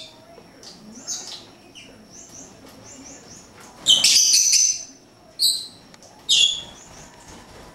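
Pet birds chirping, with a loud harsh call lasting most of a second about four seconds in and two shorter loud calls after it.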